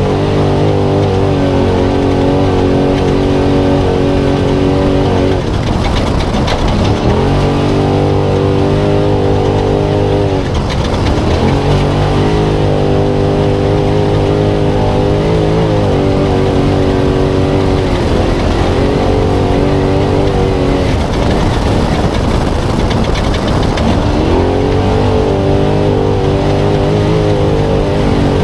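Spec Trophy Truck's V8 engine heard onboard while racing. It holds steady revs and several times drops in pitch as the throttle is lifted, then climbs back as it is reapplied. A constant rush of road and wind noise runs underneath.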